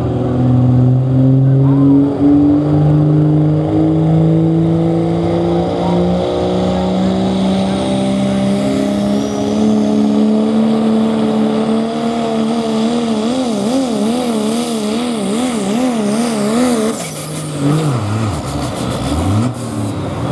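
Pro Stock diesel pickup truck pulling a sled under full load, its engine tone climbing slowly in pitch as it pulls down the track. Around two-thirds of the way in the pitch wavers rapidly up and down for a few seconds, then the engine drops off sharply near the end of the pull.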